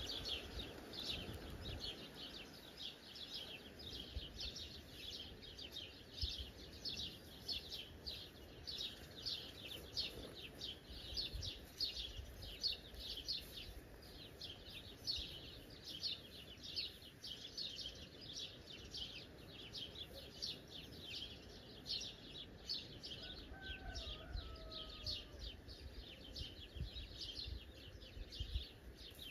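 A bird chirping over and over in short, even calls, about two to three a second, with a brief two-note whistle from another bird about three-quarters of the way through.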